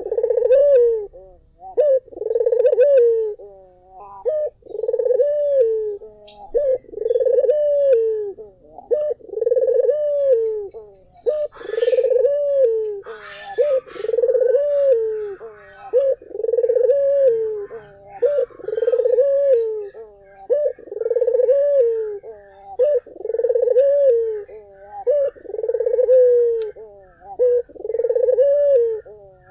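Puter (Barbary dove) cooing continuously: rounded, low coo notes, one about every second and a half, with faint chirping of other birds behind.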